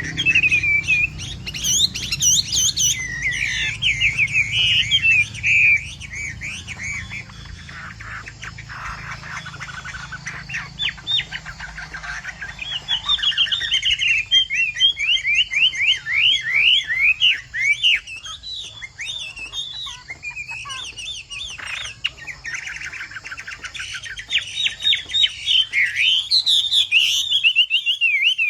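Chinese hwamei singing a long, varied song of clear whistled notes, with fast runs of repeated rising and falling notes and short pauses between phrases.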